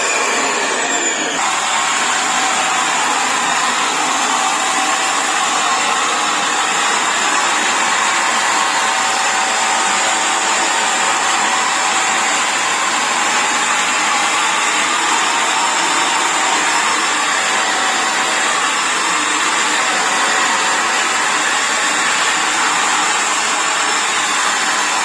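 Vacuum cleaner running steadily: a constant rushing noise with a thin, steady high whine.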